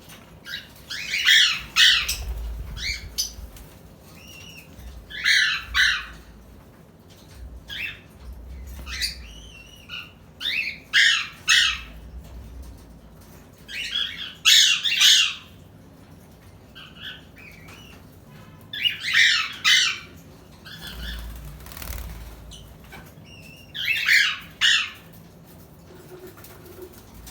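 Pet birds making repeated loud bursts of squawking and wing flapping about every four to five seconds, with short chirps between.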